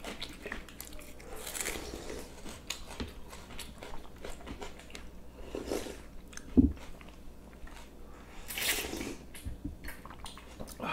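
Chewing and wet mouth sounds of people eating, with small clicks of cutlery or dishes. One dull thump about six and a half seconds in is the loudest sound.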